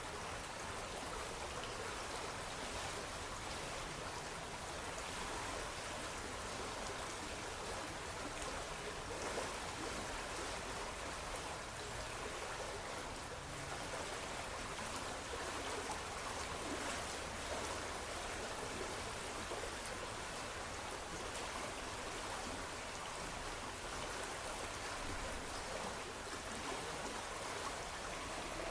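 Running water babbling steadily, like a small stream or trickle.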